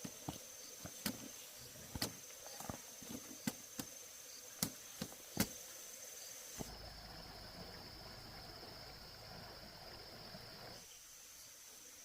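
Irregular sharp knocks and taps, a dozen or so over about five seconds, over a steady high insect drone. After the knocks stop, a duller rushing noise comes in for about four seconds.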